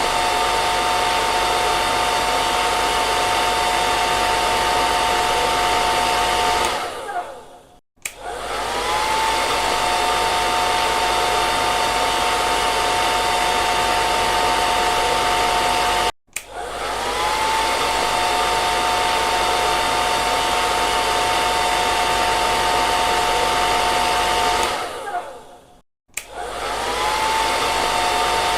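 Hair dryer switched on and off several times. Each time it starts, the motor spins up with a short rising whine that settles into two steady tones over a loud rush of air, then fades out as it winds down. It winds down about a quarter of the way in and restarts, cuts off abruptly and restarts a little past halfway, then winds down and restarts again near the end.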